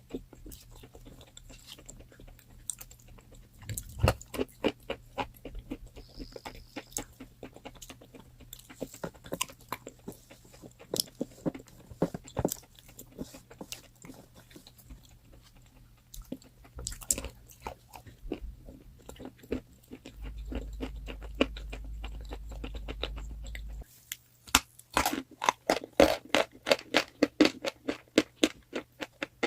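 Pieces of chalk being bitten and chewed close to the microphone: crisp, irregular crunches, with a fast, dense run of crunching in the last few seconds.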